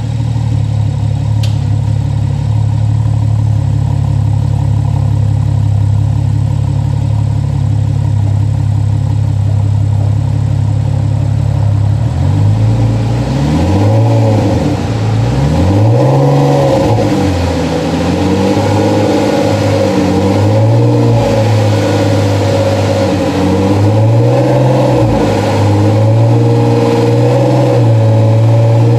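Porsche Cayman race car's engine idling steadily at first; about twelve seconds in, the throttle is blipped repeatedly, the exhaust note rising and falling with each rev before dropping back toward idle.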